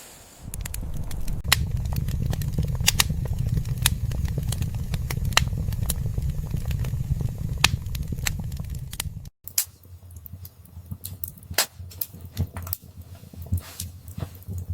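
Wood fire in a fireplace crackling and popping, with a low rumble of the flames under it. The rumble cuts out with a brief gap about nine seconds in, and the pops go on over a quieter background.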